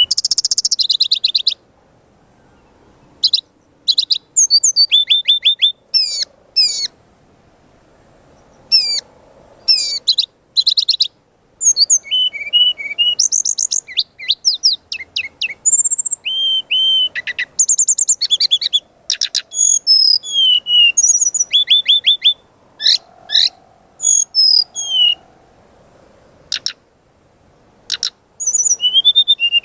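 Brown-chested jungle flycatcher (sikatan rimba dada coklat) singing in short, rapid bursts of sharp, high, sweeping notes and trills, with pauses of a second or two between phrases.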